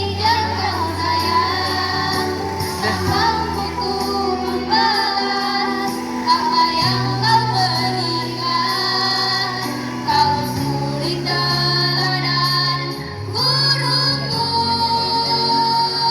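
A choir of female students singing a melody together over instrumental accompaniment of long held low notes that change every few seconds.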